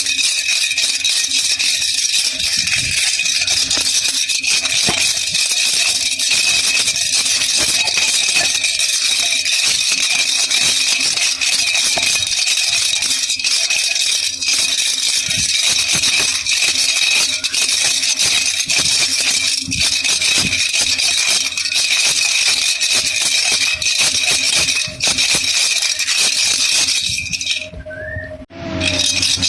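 Baby rattle (jhunjhuna) shaken steadily, a dense continuous rattling of small beads. Near the end it stops for about a second and a half, then starts again.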